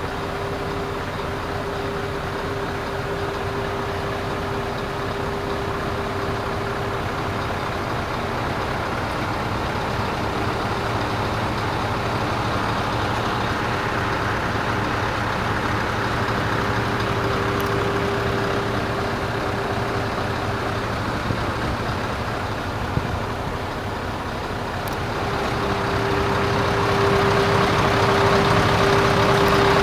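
Scania 580 truck's V8 diesel engine running, with a steady whine over the engine noise; it grows louder near the end.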